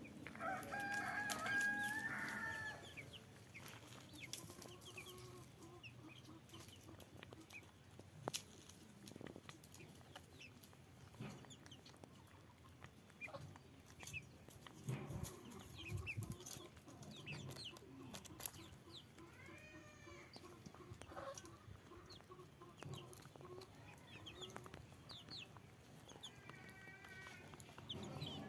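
Backyard chickens clucking on and off. A long, loud rooster crow in the first two or three seconds is the loudest call.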